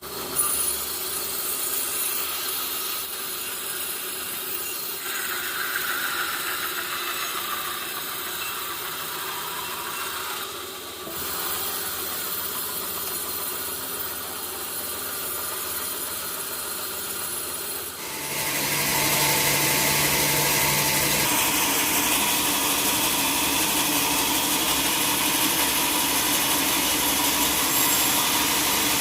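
Sawmill saw running through a log, with the machine's engine running: a steady mechanical noise that gets louder about two thirds of the way through.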